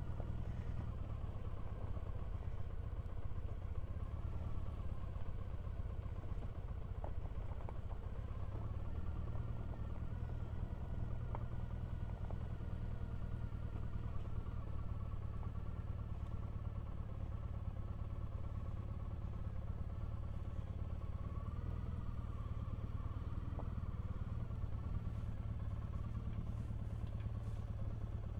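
Triumph Bonneville parallel-twin motorcycle engine running steadily at low speed while the bike is ridden slowly down a rough track.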